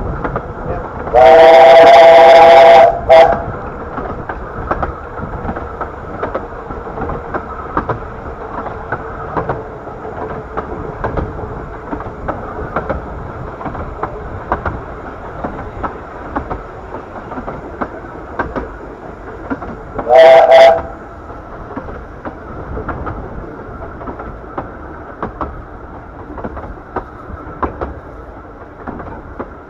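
Steam locomotive whistle on the 15-inch-gauge Bure Valley Railway blown twice: a long loud blast with a short pip right after, about a second in, and one short blast about twenty seconds in. Underneath runs the steady rumble and clatter of the train on the rails.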